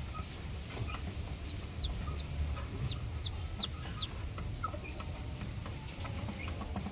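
Chicken calling: a run of about seven short, high, down-slurred peeps, roughly three a second.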